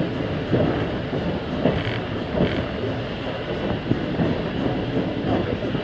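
Passenger car of a steam-hauled train rolling on the rails: a steady rumble with irregular clacks and knocks from the wheels and couplings.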